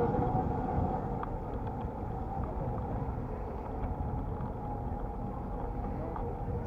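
Steady low rumble of wind and road noise from a moving electric bicycle, with a faint steady whine and a few light clicks.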